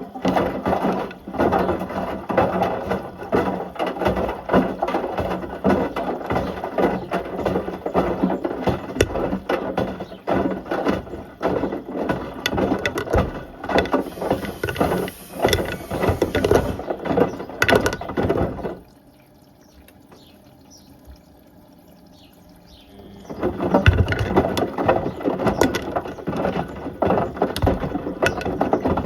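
A toaster and a kettle clattering and banging against the drum of a Beko WM74135 washing machine as it tumbles. The clatter stops for about four seconds when the drum pauses, then starts again.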